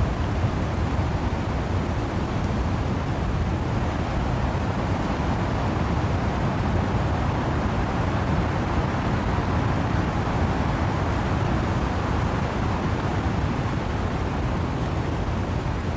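Wind and rain in trees: a steady rushing noise with no separate gusts or drops standing out, heaviest in the low end.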